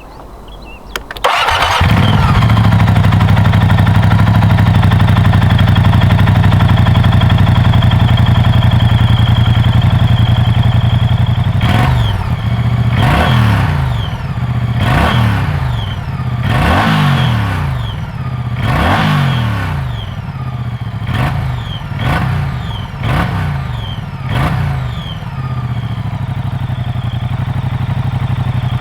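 Moto Guzzi V100 Mandello S's 1042 cc transverse V-twin cranks briefly, catches, and settles into a steady idle. From about halfway through it is blipped about ten times, each rev rising sharply and dropping back to idle, then it runs at idle again until it cuts off.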